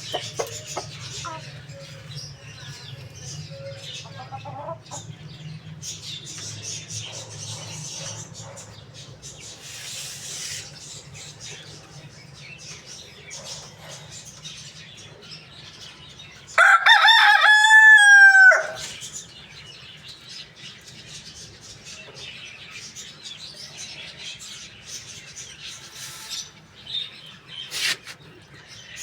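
A rooster crows once, a loud call of about two seconds a little past the middle, over soft clucking and scattered chirps from other chickens.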